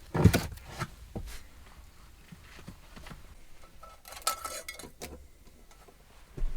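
Handling noises in a small room: a sharp knock, then scattered small clicks and a brief clinking rustle about four seconds in, like pots or utensils being moved.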